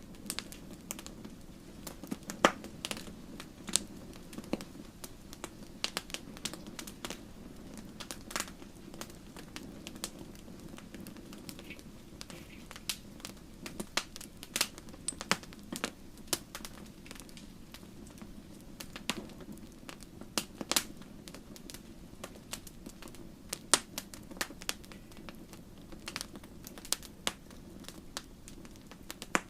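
Wood fire burning in a fireplace: irregular sharp crackles and pops, several a second and of varying loudness, over a steady low rush of flame.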